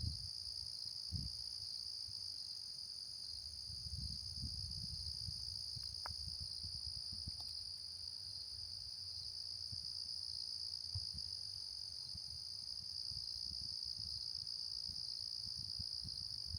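Crickets chirring in a steady, unbroken high-pitched chorus, with a few soft low thuds underneath.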